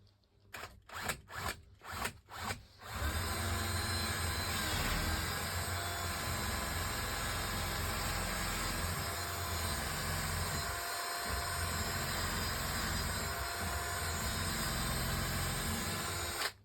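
Electric power tool started in about five short bursts, then run steadily for roughly fourteen seconds before cutting off suddenly.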